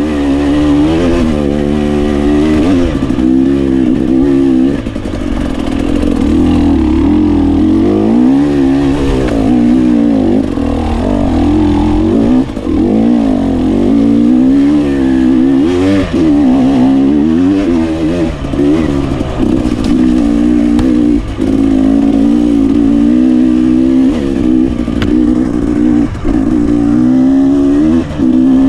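GasGas 300 two-stroke enduro motorcycle engine being ridden hard, its pitch rising and falling constantly as the throttle is worked. The throttle is briefly shut every few seconds.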